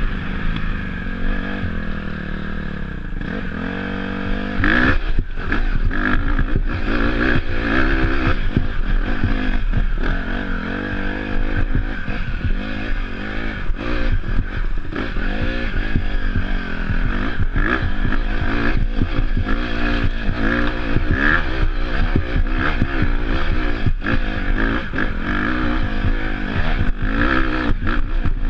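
Off-road dirt bike engine revving up and down as it is ridden, its pitch rising and falling with the throttle. The revs climb sharply about four seconds in, over a steady low rumble with scattered knocks and clatter.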